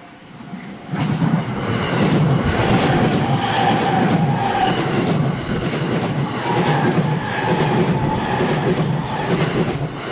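Electric train on the JR Tokaido Main Line passing close by: loud rumble of wheels on rail with a repeating clatter, rising quickly about a second in and staying loud.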